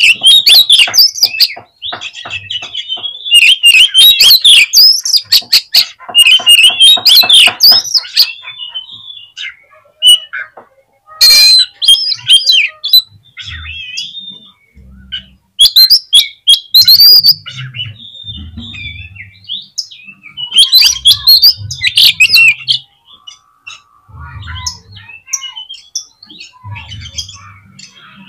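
Oriental magpie-robin (kacer) singing in loud bursts of rapid, varied chattering and whistled notes, with short pauses between phrases.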